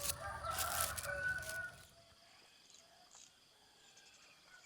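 A rooster crowing once, lasting under two seconds.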